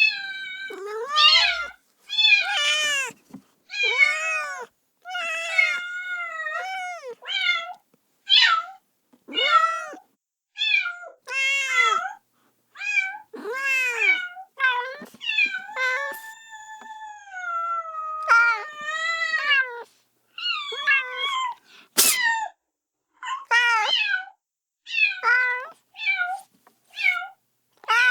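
Kitten meowing over and over, high-pitched calls coming about one a second, with one longer drawn-out meow about halfway through: a kitten crying for its mother. A single sharp click sounds a little after the long meow.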